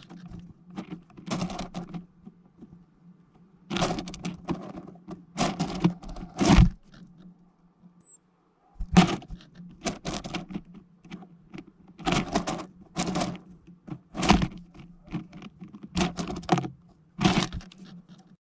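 Irregular knocks and taps on a plastic-bottle bird feeder as small birds land on it and peck at the seed, coming singly or in short clusters about every second or two.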